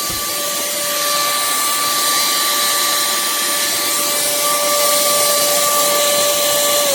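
Cordless handheld vacuum cleaner (pemacom, 10 kPa) running steadily: a high, even motor whine over rushing airflow hiss. At the very end it is switched off and the whine begins to fall in pitch.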